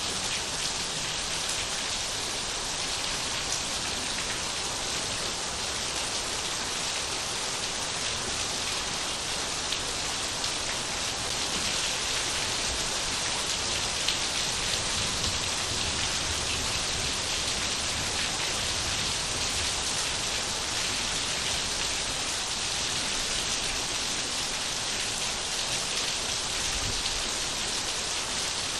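Steady rain falling, a dense even hiss of many drops striking surfaces, with no thunder.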